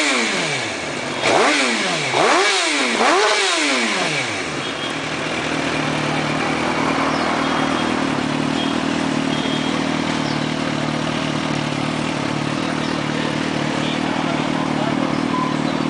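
2008 Suzuki GSX-R1000's inline-four engine revved in three quick throttle blips, pitch shooting up and dropping back each time, then settling to a steady idle from about five seconds in.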